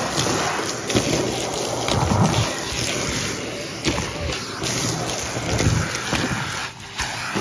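Numatic Hetty cylinder vacuum cleaner running and sucking up a dry mess, with debris clicking and rattling through the hose and tool, and low rumbling swells as the tool is worked over the floor. The sound drops briefly shortly before the end.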